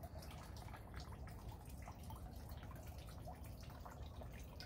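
Light rain dripping, a steady patter of irregular small drops over a low, even rumble.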